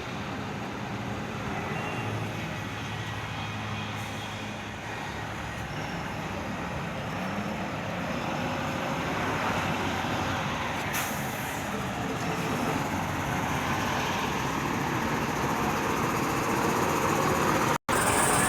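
Heavy truck's diesel engine running amid steady road and traffic noise, gradually getting louder. The sound cuts out for an instant near the end.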